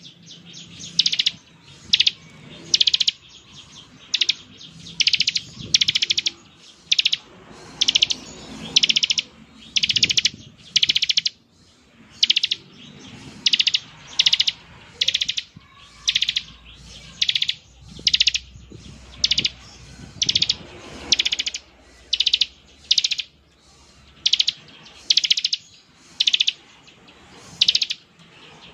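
Bar-winged prinia (ciblek) giving its 'ngebren' call: short, high, buzzy trills repeated about once a second, often in quick pairs.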